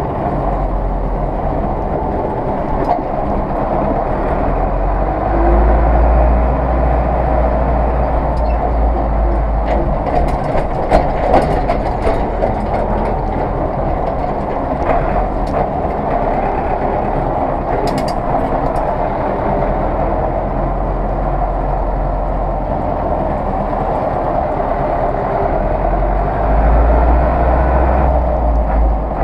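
Zetor 6911 tractor's diesel engine running steadily, its low drone swelling twice, with a few rattling clanks around ten and eighteen seconds in.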